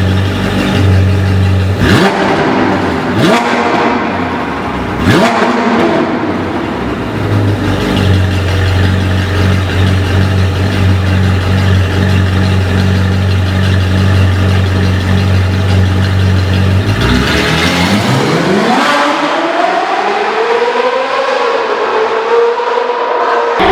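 Ferrari 458 Spider's V8 revving through an Armytrix valvetronic exhaust: a few short rising throttle blips over music with a steady bass, then, about three-quarters in, the music stops and the engine is heard alone in long rising and falling revs.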